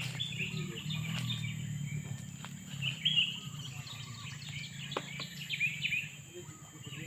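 Sooty-headed bulbuls calling: a run of short, quick, bubbly chirps and whistled notes, some rising and falling, over a low steady hum.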